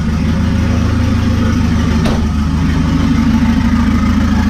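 Turbocharged Volvo engine idling steadily, freshly started after the car had sat for a long time. There is a single brief click about two seconds in.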